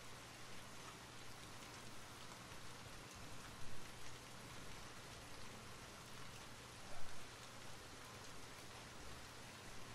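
Steady rain falling, an even patter of drops, with two brief louder sounds about a third of the way in and about two-thirds of the way in.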